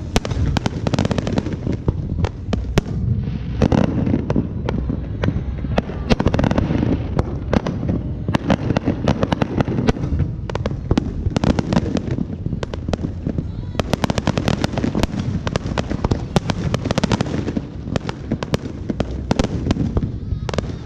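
Dense, continuous fireworks and firecrackers: rapid crackling and popping over a constant low rumble of bangs, with no break.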